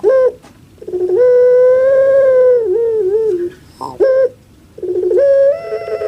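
Puter pelung (Streptopelia risoria, a long-calling domestic dove) calling: a short note, then a long drawn-out coo that opens with a rolling stutter and breaks into wavering notes at its end, then a short note and a second long coo starting about five seconds in.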